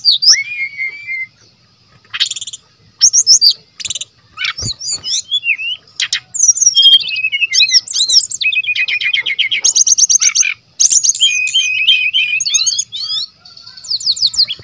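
Brown-chested jungle flycatcher (SRDC) singing a loud, varied song: quick chirps, slurred whistles and fast rattling trills in rapid succession, with a couple of brief pauses.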